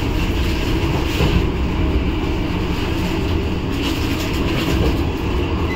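Vande Bharat Express train running, a steady rumble of wheels on rails.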